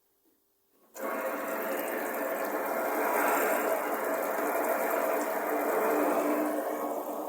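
Water starting to run from a waterfall kitchen sink faucet about a second in, then pouring steadily into the sink.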